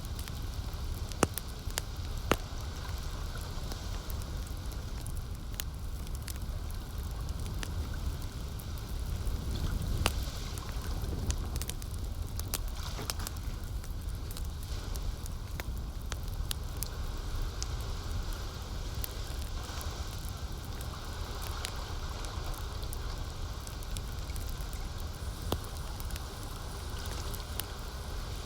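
Campfire burning, with frequent sharp crackles and pops over a steady low rumble; two louder pops come in the first few seconds.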